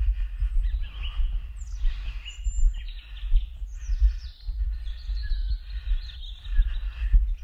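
Several wild birds singing and chirping, with gliding and warbling phrases, over a loud, uneven low rumble on the microphone.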